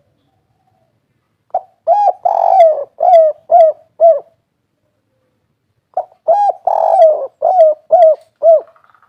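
Spotted dove (tekukur) cooing its 'kuk 3' song twice: each phrase is a short note, a longer coo, then three short 'kuk' notes at the end.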